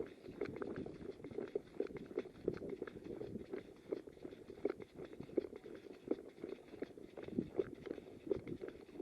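Footsteps of a player moving quickly over rough ground, with the kit and the rifle he carries rustling and knocking: a run of short, uneven thuds and scuffs.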